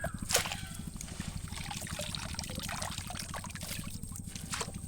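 Water trickling and splashing, with two sharp splashes, one just after the start and one near the end, over a steady low throb.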